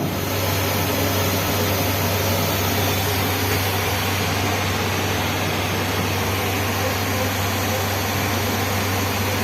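Steady cabin noise inside a Boeing 737-800 airliner: the even rush of engines and airflow with a constant low hum.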